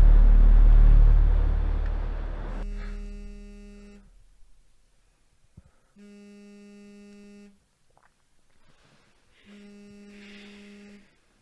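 A loud low rumble fades away over the first couple of seconds. Then a mobile phone buzzes on vibrate three times, each buzz about a second and a half long and about three and a half seconds apart: an incoming call.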